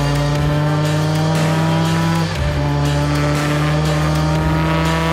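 Millington Diamond 2.7-litre four-cylinder twin-cam engine pulling hard under acceleration, its pitch climbing steadily. A quick upshift on the sequential gearbox comes just over two seconds in, and then it climbs through the revs again.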